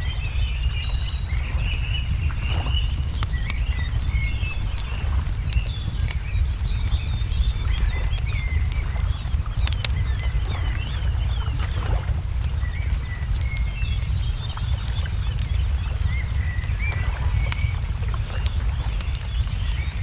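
Crackling wood fire with scattered sharp pops, while small birds chirp and twitter throughout, over a steady low rumble.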